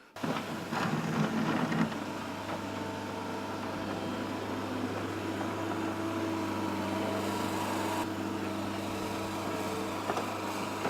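Engine running steadily at a constant speed, an even hum with no change in pitch.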